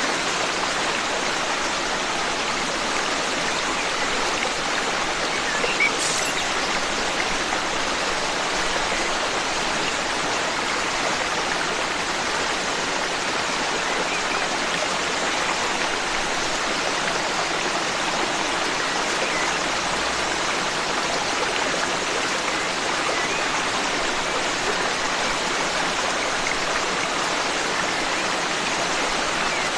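Forest stream flowing steadily, an even rushing and splashing of water, with one brief sharp sound about six seconds in.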